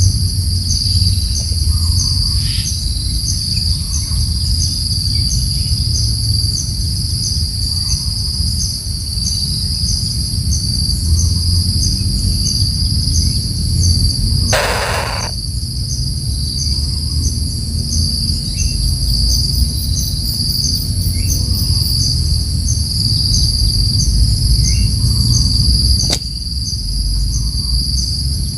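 Steady, loud insect chorus of crickets or cicadas, pulsing rhythmically in a high shrill band, over a low rumble. About halfway through there is a short harsh burst lasting about half a second, and near the end a single sharp click.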